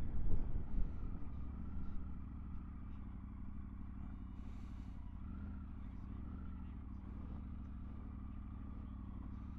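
Triumph Tiger 900 GT Pro's three-cylinder engine running steadily while riding two-up, its note wavering slightly; a little louder in the first couple of seconds, then even.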